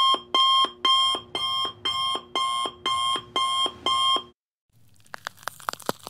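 Electronic alarm clock beeping: nine short, even beeps about two a second, stopping about four seconds in. Then near the end comes a stalk of celery snapping and crunching, a quick run of sharp cracks.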